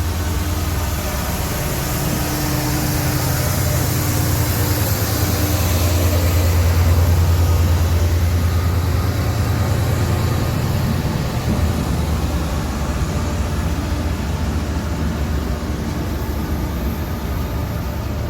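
A train running past with a steady low engine rumble and wheel noise. It grows loudest about seven seconds in, then eases off a little.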